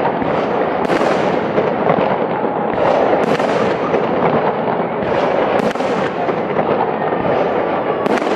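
Aerial fireworks going off in a dense, continuous crackle. A sharper bang stands out about every two to three seconds.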